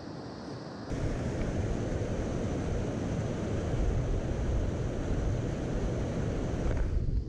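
Steady rushing of a mountain stream, with abrupt cuts in the sound about a second in and again near the end.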